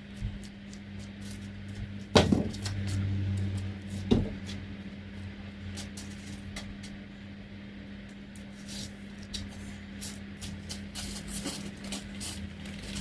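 Two heavy thumps about two seconds apart over a steady low hum, with scattered small clicks and knocks.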